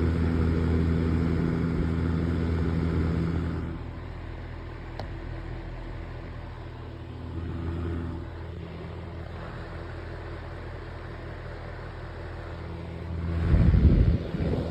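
Konwin electric fan heater's blower running on fan only, a steady hum that drops in level about four seconds in. Near the end a loud low rush, typical of the air stream hitting the microphone.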